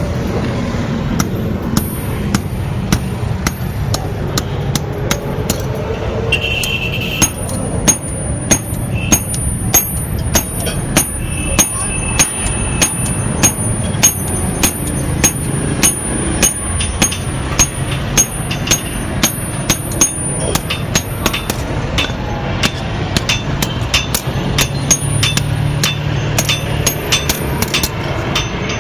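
Repeated hammer blows on metal at an anvil, an even rhythm of about two strikes a second over steady background noise.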